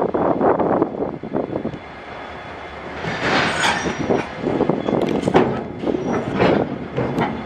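Iron-ore freight train running, its wagons clattering and banging in uneven surges, with a couple of brief high wheel squeals.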